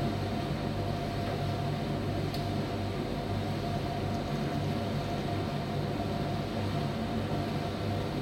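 Primus tumble dryer running: a steady low motor and fan hum, with a faint steady tone above it and a slow swell and fade as the drum turns.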